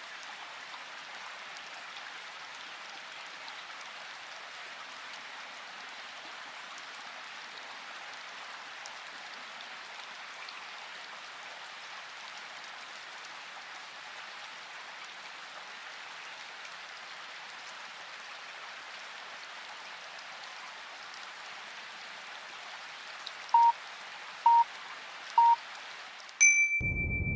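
Steady rain-like hiss, then a timer's countdown: three short beeps about a second apart and a longer, higher final beep, marking the switch between a Pomodoro study block and a break. Right after the final beep the hiss cuts off and a low, rumbling noise takes over.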